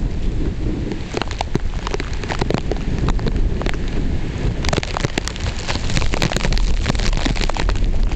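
Typhoon wind and rain: a steady low rumble of gusts buffeting the microphone, with heavy rain spattering in many sharp drop hits that grow denser about halfway through.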